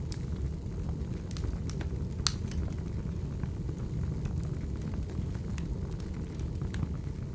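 Wood fire burning: a steady low rumble with scattered sharp crackles and pops, the loudest a little over two seconds in.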